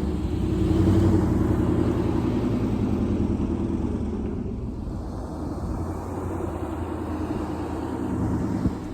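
Motor vehicle engine running with a steady low rumble, loudest about a second in and easing off a little after.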